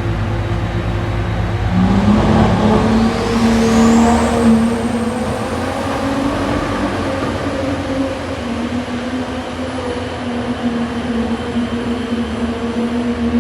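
Motor vehicle engine running, then speeding up about two seconds in, with a thin high whine climbing in pitch before settling into steady running.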